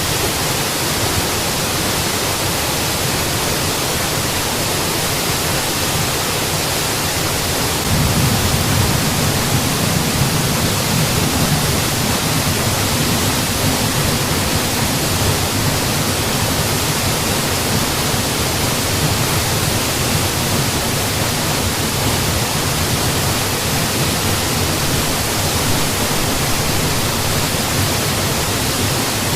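Mountain waterfall: a steady, even rush of falling water, its low rumble swelling slightly about eight seconds in.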